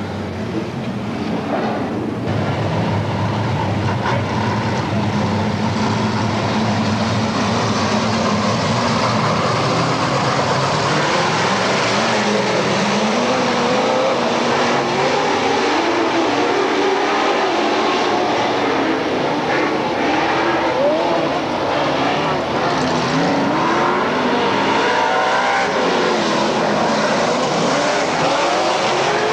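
Dirt-track race cars running together around the oval, a continuous, loud engine din with engine notes rising and falling as the cars come and go.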